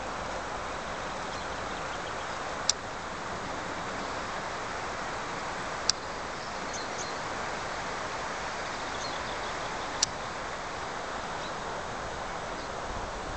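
Steady outdoor rushing noise, broken by three sharp clicks a few seconds apart, with a few faint high chirps.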